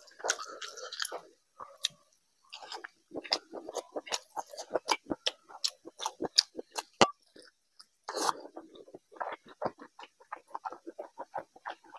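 Close-miked chewing of a soft mouthful of rice and curry, with quick wet lip smacks and mouth clicks, several a second. There is a brief pause about two seconds in and a louder burst of smacking about eight seconds in.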